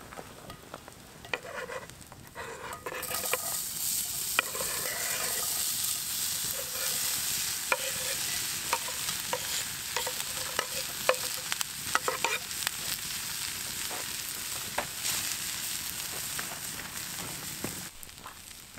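Diced potatoes and onion frying in a cast iron skillet, sizzling loudly from about three seconds in, with the clicks and scrapes of a wooden spatula stirring them. The sizzle drops away suddenly near the end.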